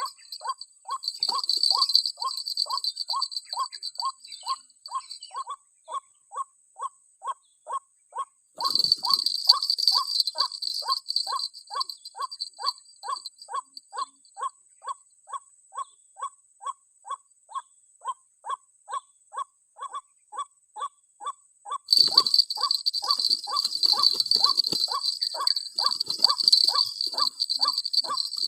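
White-breasted waterhen (ruak-ruak) call: a short note repeated steadily about twice a second, as used to lure the bird into a trap. A high insect buzz comes and goes in three stretches.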